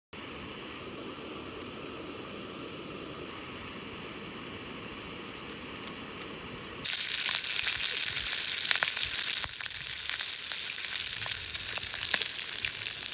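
Food frying in a hot pan: a sudden loud sizzle starts about seven seconds in and keeps on, with scattered crackles. Before it there is only a faint steady hum and a single click.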